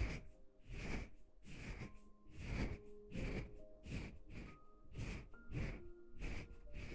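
Rhythmic breathy puffs close to the microphone, about three every two seconds, over soft background music.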